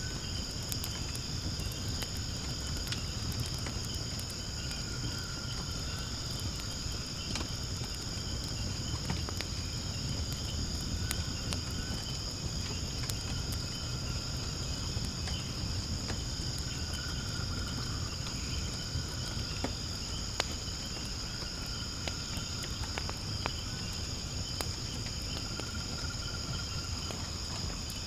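Wood fire burning in a fire pit, crackling with scattered sharp pops over a low rumble, with a steady high-pitched insect chorus behind it.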